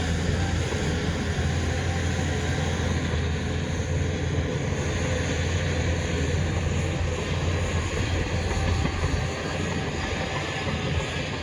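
Heavy diesel engine of earthmoving machinery running steadily, a deep low drone with a constant mechanical din over it.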